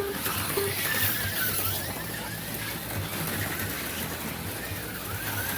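HO-scale slot cars running on the track, their small electric motors whining and the pitch wavering up and down as the cars speed up and slow through the corners, over a steady low hum.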